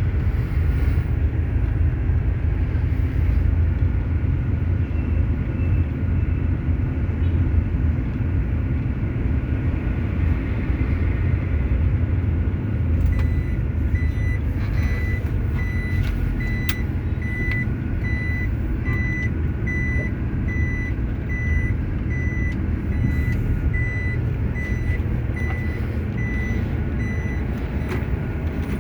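A truck's diesel engine runs steadily with a low rumble. About halfway through its reversing alarm starts, beeping at about two beeps a second until shortly before the end: the truck is backing up.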